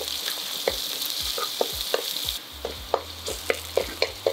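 Spring onions, green chilies, ginger and garlic sautéing in hot oil in a wide pan: a steady sizzle, with a wooden spatula stirring and tapping against the pan about three times a second.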